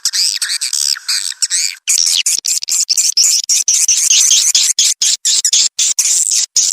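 Swiftlet lure-sound recording: a dense, continuous twittering of high chirps, many overlapping. About two seconds in, the chirping changes to a sharper, clicking twitter.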